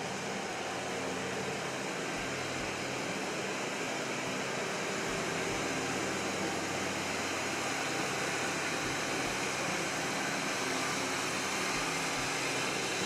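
New Holland 3050 tractor's diesel engine running steadily, a constant hum with a hiss over it.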